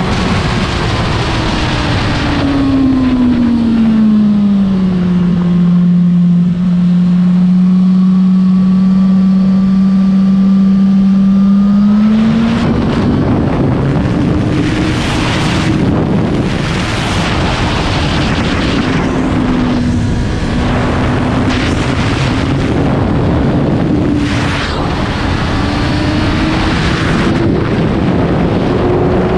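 Suzuki GSX-R1000 K7's inline-four engine heard from onboard the bike: the engine note falls over the first few seconds, holds a steady lower tone, then climbs sharply about twelve seconds in and rises and falls through the rest. Wind rushes and buffets over the microphone, loudest while the engine note is high.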